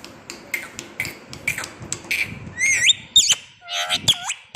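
Pet talking parrot vocalising: a run of sharp clicks, then several high whistled chirps that swoop up and down in pitch.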